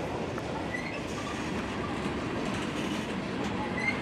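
Norfolk Southern freight train's covered hopper and tank cars rolling past, a steady noise of steel wheels running on the rails.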